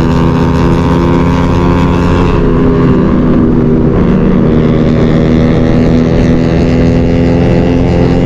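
Motorcycle engine running at steady revs while riding, with wind noise on the bike-mounted microphone.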